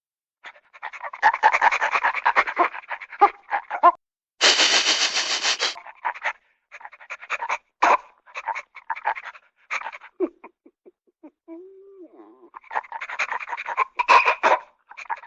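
Dog panting in quick, rough breaths, in several runs broken by short pauses, with a denser hissing stretch about four and a half seconds in and a brief low tone about twelve seconds in.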